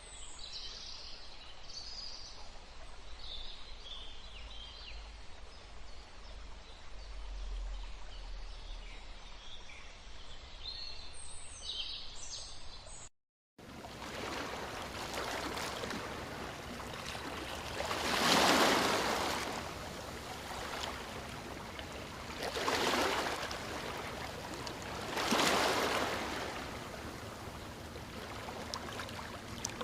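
Birds chirping over a steady low hum; then, after an abrupt cut, an even rush of moving water that swells louder three times, like waves washing in.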